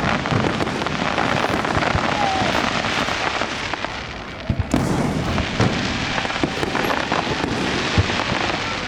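Aerial fireworks going off in a dense, continuous crackle, with a few sharper bangs about halfway through and another near the end.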